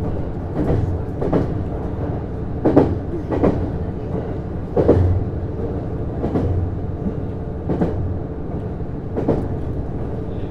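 Interior running sound of a JR East Series HB-E210 hybrid diesel-electric train at speed: a steady hum of the running gear with wheels clicking over rail joints in repeated pairs.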